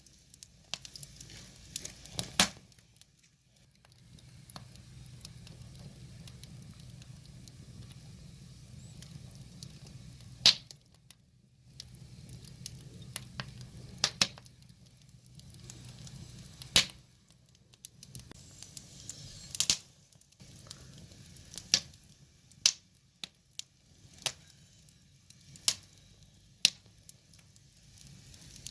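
Wood fire crackling, with sharp pops from the burning logs at irregular intervals, a second to a few seconds apart, over a soft hiss. For roughly the first half there is also a low steady rumble of flame.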